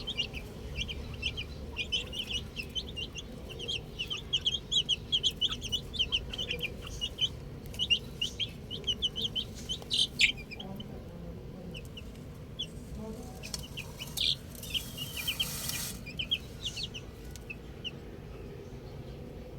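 Baby chicks peeping: many short, high chirps in quick succession that thin out to scattered peeps after about ten seconds. A brief rustling hiss about fifteen seconds in.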